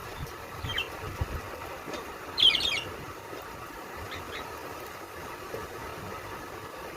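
Birds calling over a steady background hum: a short chirp, then a loud, harsh, scratchy burst of calls about two and a half seconds in, and two faint chirps a little later.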